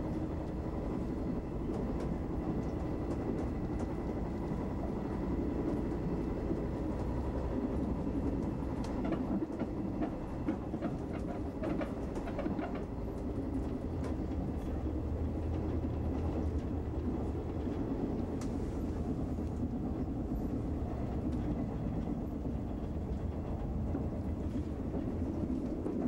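Running noise of a JR 381-series electric express train heard from inside the passenger car: a steady rumble of wheels on rails, with a run of sharp clicks near the middle.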